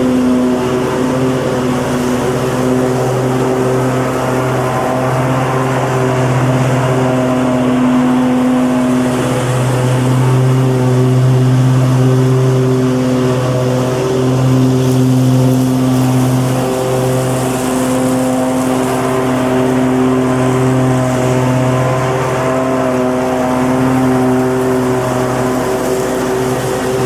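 Lawn mower engine running steadily at a constant speed, a continuous drone with slight wavers in level.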